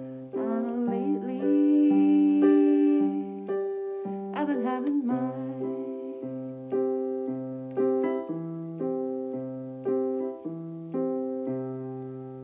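Keyboard playing slow, evenly repeated chords that each ring and fade, closing out the song. Over the first five seconds a wordless vocal line glides up into a held note.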